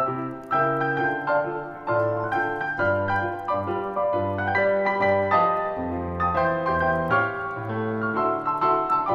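Background music: a solo piano playing a calm Christmas song arrangement, melody over changing chords.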